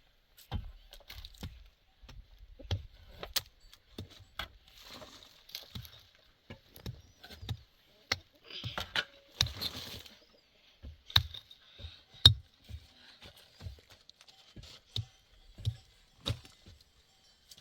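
Irregular knocks and thuds, about one or two a second, with bursts of rustling and scraping around the middle.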